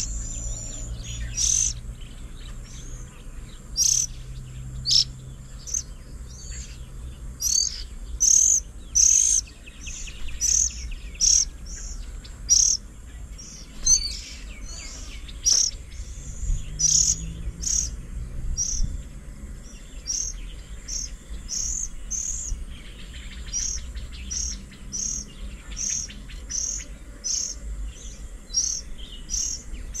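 Birds calling: a long series of short, high-pitched chirps, about one or two a second.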